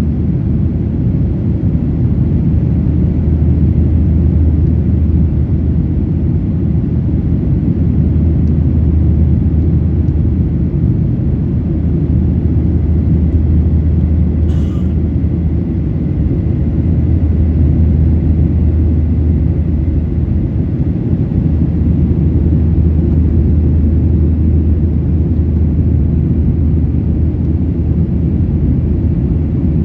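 Steady low cabin rumble of a Boeing 737-800 with its CFM56-7B turbofans running and air rushing past the fuselage, as heard inside the cabin, with a faint thin whine above it. A brief click about halfway through.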